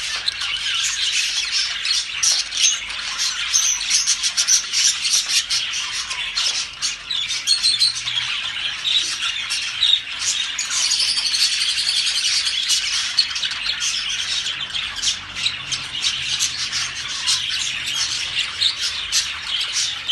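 A flock of birds squawking and chirping, many high calls overlapping in a continuous din.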